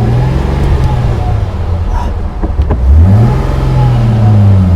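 Mercedes 300 SL's 3.0-litre straight-six accelerating under load. The revs climb at the start, drop at a gear change about two and a half seconds in, then climb again and hold.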